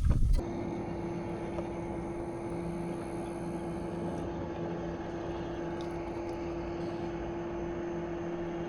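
A brief loud clatter at the start, then a steady electric motor hum with a constant tone, most likely the boat's trolling motor holding position.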